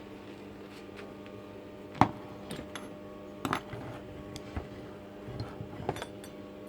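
Scattered metallic clinks and knocks of hard objects being handled, the loudest about two seconds in and a few lighter ones after it, over a steady hum.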